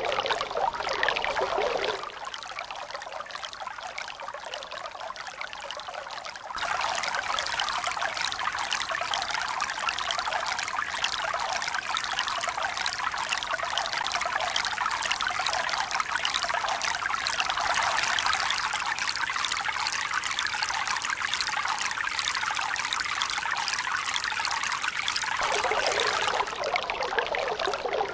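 Steady rushing and splashing of running water. It drops suddenly to a quieter, thinner sound about two seconds in, returns louder and fuller about six seconds in, and shifts abruptly again near the end, like separate recordings joined together.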